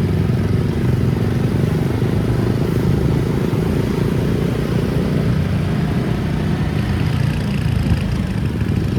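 Steady rumble of a vehicle on the move, engine and road noise running without change.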